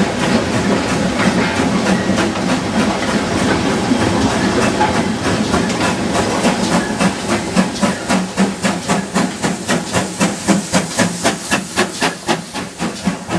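Steam locomotive running with a hiss of steam; about halfway through, an even beat of about three a second comes through and grows more distinct.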